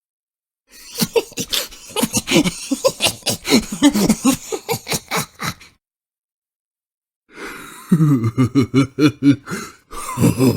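Crazy laughing sound effects: a long fit of rapid, pulsing cackles that lasts about five seconds, then after a short silence a second burst of lower-pitched laughter, with a third just starting near the end.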